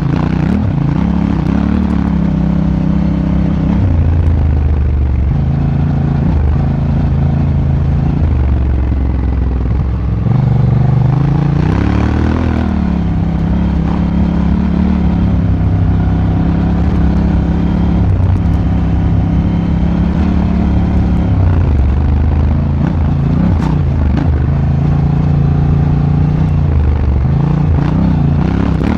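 Honda Africa Twin motorcycle engine heard on board while riding, its note holding for a few seconds at a time and then rising and dropping with the throttle, with a rev up and back down about twelve seconds in, over steady wind rush.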